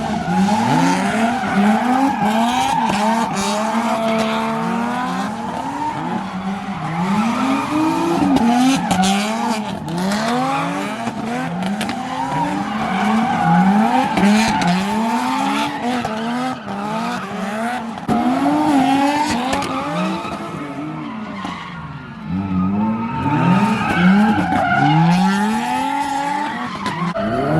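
A car engine revving up and down over and over, about once a second, with tires squealing and skidding.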